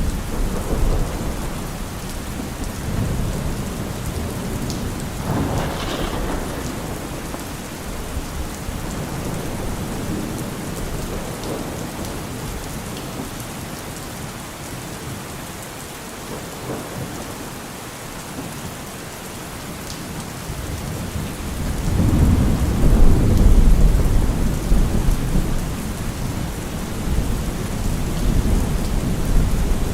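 Steady rain with rumbling thunder. A long, low roll of thunder swells up about two-thirds of the way through and is the loudest part.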